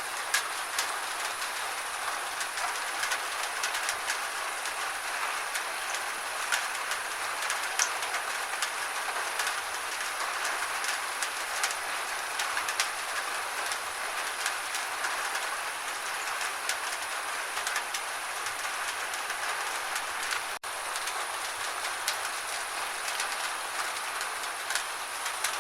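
Steady gentle rain falling, an even hiss with many scattered drop taps, and a momentary dropout about twenty seconds in.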